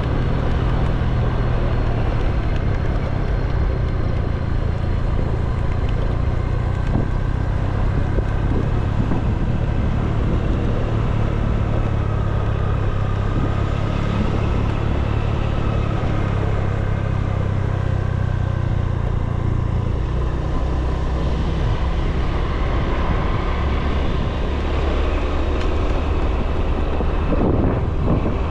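A motor vehicle's engine running steadily while under way, with road and wind noise over it. The engine note drops lower about two-thirds of the way through.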